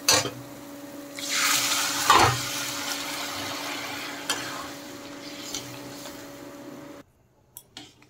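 Boiled chickpeas going into hot spiced oil in a kadai, sizzling loudly about a second in and then slowly dying down, with a few knocks of a metal spatula against the pan. A steady low hum runs underneath, and the sound cuts off abruptly near the end.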